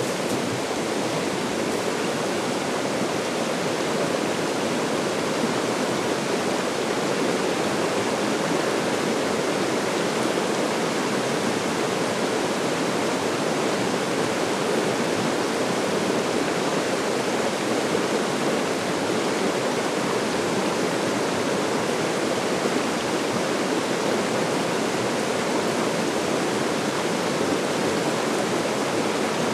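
Small river's rushing water, a steady even rush with no breaks.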